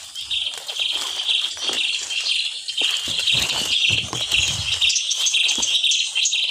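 Small birds chirping in quick, rapid repeated calls over a steady high insect-like drone, with some rustling in the middle.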